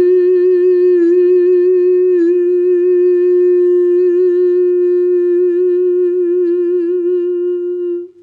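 A human voice humming one long held note with a gentle wavering vibrato, a meditative sound-healing tone that stops about eight seconds in.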